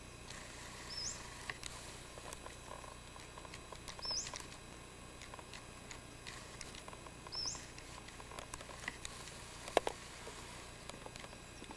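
A small wild animal's call: a short, high chirp that dips and then sweeps upward, heard three times about three seconds apart. Faint scattered clicks sound in between, with a sharper click near the end.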